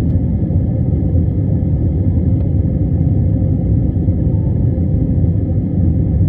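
Jet airliner's engines and airflow, a steady low rumble that holds its level throughout.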